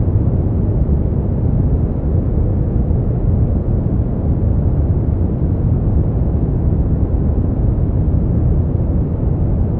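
Brown noise: a steady, deep, even rumbling hiss with most of its energy in the low end and little above the midrange.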